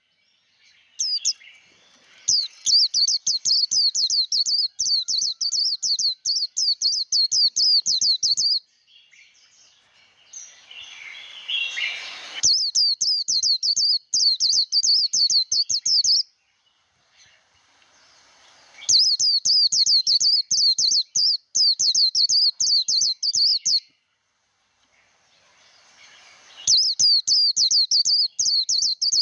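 White-eye singing its rapid, high twittering 'líu' fighting song in four long bouts of several seconds each, with short pauses between them. A softer, rougher burst of sound fills one of the pauses.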